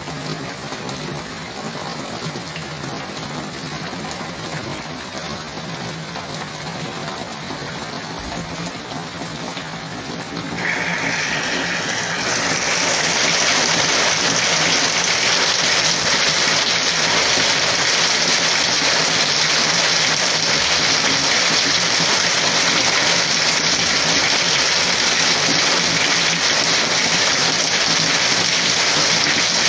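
Heavy rain falling in a steady hiss that grows clearly louder and brighter about ten seconds in, then holds at the heavier level.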